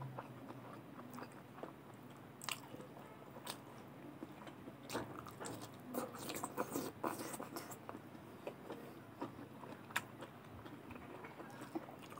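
A person chewing and eating by hand, a mouthful of rice with fried beans, potato and greens: irregular mouth clicks and chewing noises, busiest from about five to eight seconds in.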